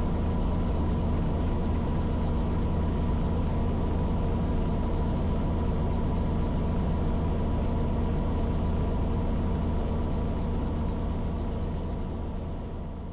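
Robinson R44 helicopter's piston engine and rotors running with a steady drone and low hum, fading out near the end.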